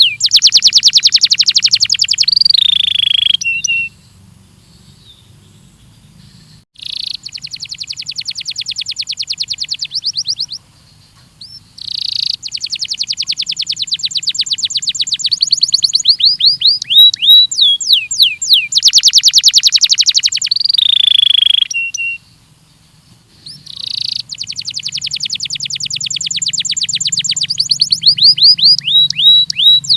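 Belgian canary singing in long, rapid trills of repeated high notes, with a few downward-sliding whistled notes. The song breaks off twice for a couple of seconds, after about four seconds and again near twenty-two seconds, then resumes. A faint low hum runs underneath.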